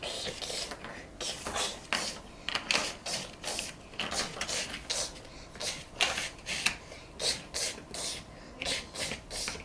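Plastic toy pieces being handled and moved, a run of irregular short scrapes and clicks, about two or three a second.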